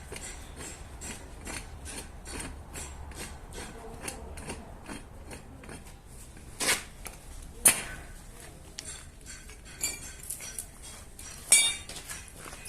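Hand work on metal: a run of light taps and clinks, two or three a second, then three louder sharp metallic strikes. The last strike, near the end, rings on.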